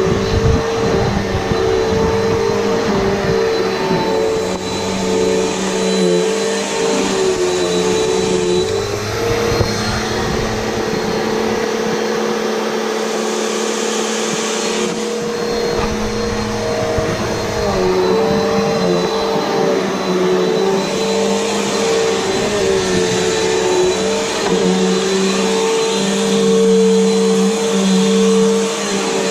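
Upright vacuum cleaner running steadily, its motor holding a constant pitch while the low rumble rises and falls as it is worked back and forth.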